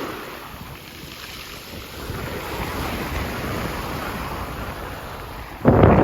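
Sea waves washing on the shore, with wind on the microphone. A sudden loud burst of noise comes near the end.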